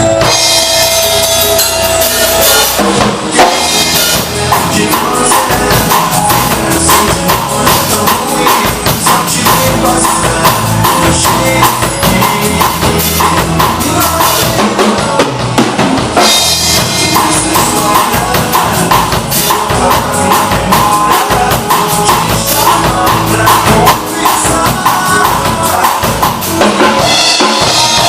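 A drum kit played along to a recorded song, with bass drum and snare hits over the backing track.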